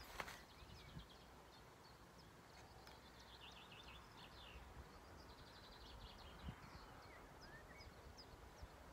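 Faint small-bird chirps and short rapid trills, thickest a few seconds in, over a low wind rumble; a single sharp click comes just after the start.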